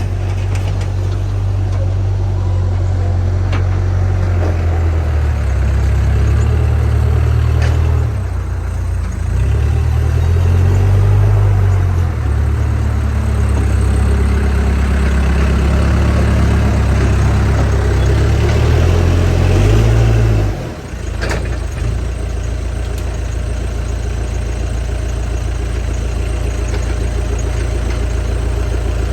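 A backhoe loader's diesel engine runs, its pitch rising and falling as it works. About two-thirds of the way through it drops away briefly, then runs steadily at a lower, even speed.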